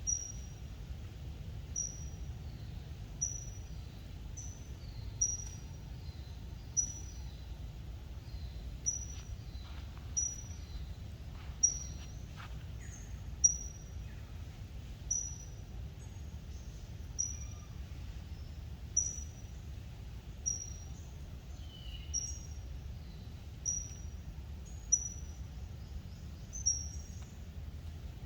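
A bird repeating a short, high chirp about every second and a half, with fainter chirps from other birds between, over a steady low rumble.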